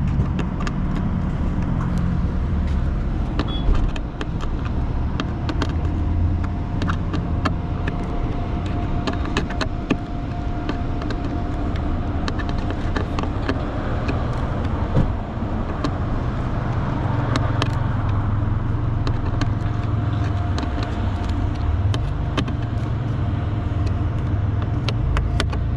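Truck engine running steadily with a low rumble, with many scattered sharp clicks and knocks over it.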